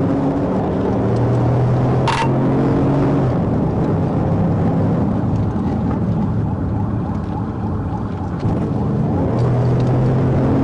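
Police patrol car's engine and road noise, with a steady engine drone that fades out and comes back. There is a short, sharp high-pitched chirp about two seconds in.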